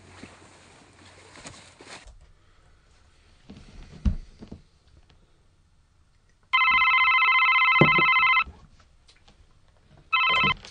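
A telephone ringing twice, each ring a steady electronic trill about two seconds long. Before it there is a single dull thump.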